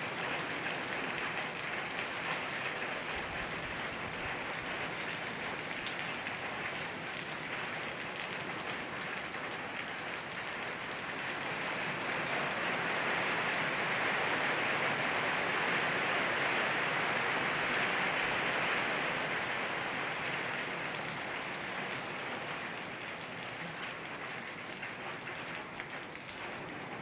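Steady rain falling, growing heavier about halfway through and easing off again near the end.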